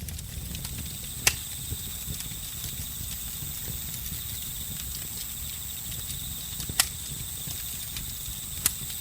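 Campfire crackling: a low steady rumble of burning wood with many small ticks and three sharp loud pops, about a second in, near seven seconds and near the end. Over it runs a continuous high, steady trilling of crickets and other insects.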